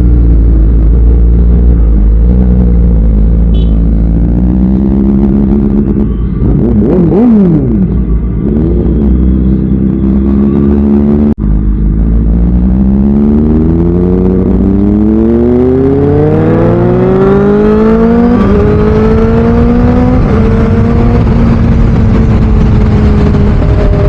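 Motorcycle engine blipped up and down a few times, then accelerating hard with a steadily rising pitch and shifting up twice, the revs dropping at each gear change before holding a steady cruise.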